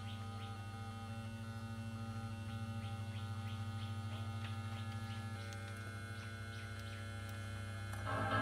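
Steady low mains-type hum through a woofer amplifier fitted with a USB Bluetooth card, with about three faint ticks a second over it: the humming noise that the added USB card brings in. Music starts from the speaker near the end.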